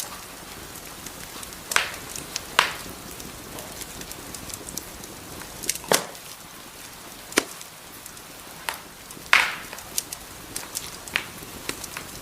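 Wood fire burning in a fireplace: a soft steady hiss with irregular sharp crackles and pops, the loudest pop about nine seconds in.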